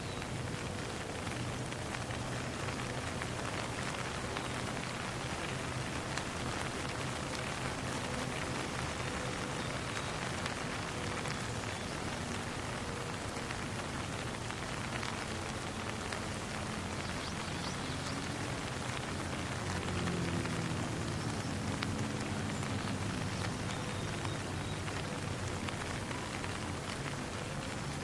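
Steady rain falling on a pond, a dense even hiss of countless drops. A low rumble swells briefly around twenty seconds in.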